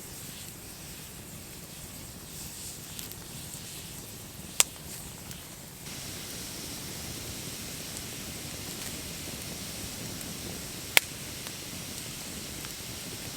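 Wood campfire burning with a steady hiss and two sharp, loud pops, one a little under halfway through and one near the end. The hiss gets slightly louder about six seconds in.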